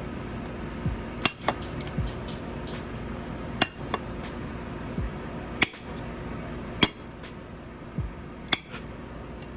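A cooking utensil knocks and clinks against a pan about a dozen times at irregular intervals as cooked chicken breast is cut up in it.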